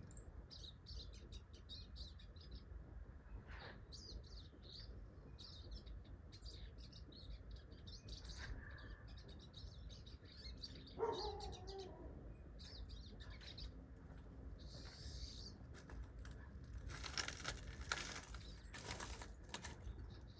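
Small birds chirping in short, high, repeated notes, with one lower, louder call that drops in pitch about halfway through. Near the end comes a few seconds of rustling, fluttering noise.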